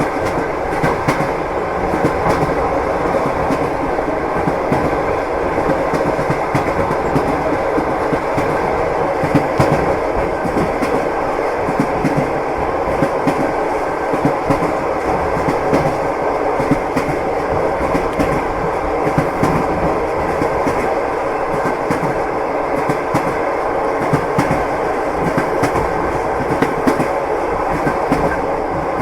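Train in motion heard from inside the carriage: a steady rumble with the clickety-clack of the wheels knocking over rail joints at irregular intervals.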